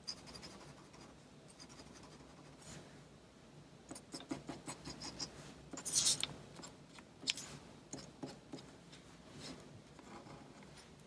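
Pen or marker tip scratching across paper in short drawing strokes, bunched together from about four seconds in, the loudest just after six seconds.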